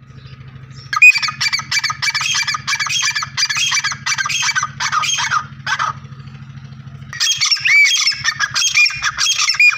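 Teetar partridge calling: a fast run of loud, harsh repeated notes lasting about five seconds, a short pause, then calling again from about seven seconds in. A steady low hum runs underneath.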